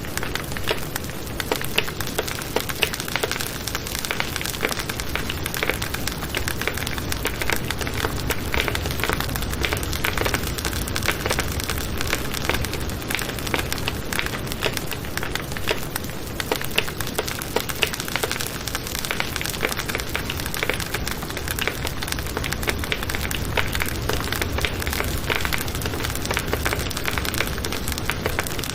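Wood campfire burning, with a steady hiss and a dense run of small crackles and pops.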